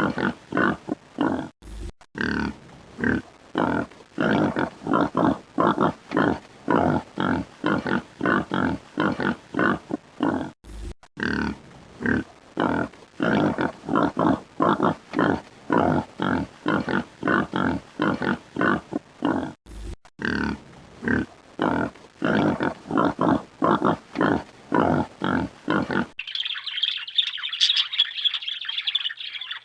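Pig grunting in quick short grunts, about three or four a second, with a brief break about every nine seconds. Near the end it cuts abruptly to a higher-pitched bird squawking.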